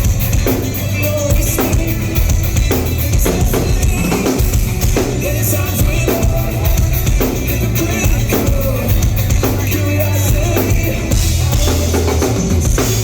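Live rock band playing an instrumental passage with no vocals: a drum kit hitting a steady beat of kick and snare over heavy bass.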